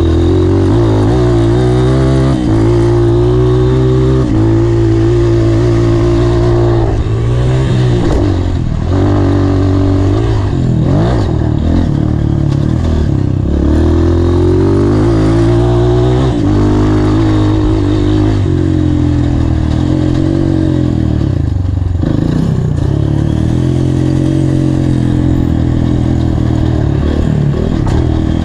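Honda CRF230's single-cylinder four-stroke engine, heard up close while riding, revving up and down again and again as the rider accelerates, shifts and backs off through the track's sections.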